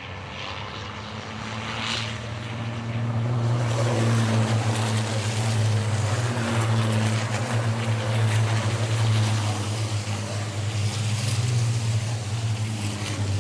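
Racing trucks' engines running, a steady low drone with a rushing noise over it, growing louder about three to four seconds in.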